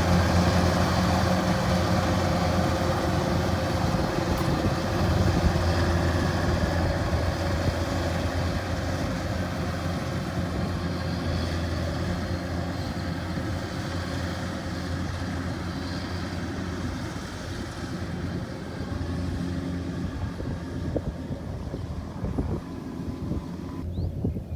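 Rice combine harvester's engine running steadily under load, slowly growing fainter.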